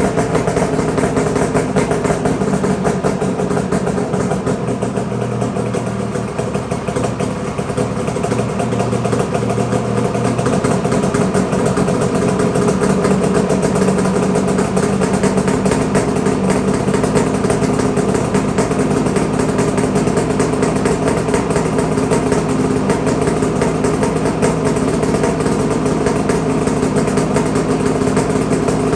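2007 Ski-Doo MXZ Blizzard 800 H.O. Power TEK two-stroke twin-cylinder snowmobile engine, breathing through Jaws Performance twin race pipes, idling steadily and loudly.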